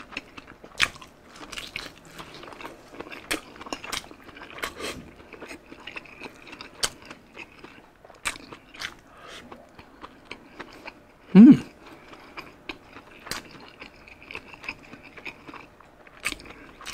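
Close-up eating sounds: a person biting and chewing smoked Hungarian sausage with rice, with frequent short wet mouth clicks and smacks. About eleven and a half seconds in there is one brief hum of the voice, the loudest sound here.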